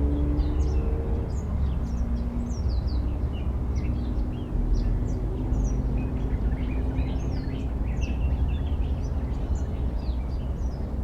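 Many birds chirping and twittering, with short calls overlapping throughout, over a steady low rumble.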